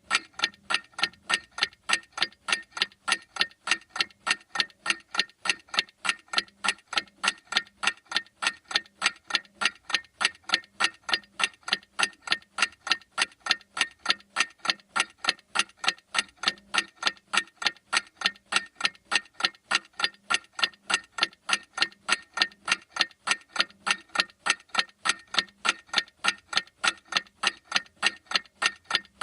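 A clock ticking in a steady, even rhythm of sharp ticks, roughly two a second.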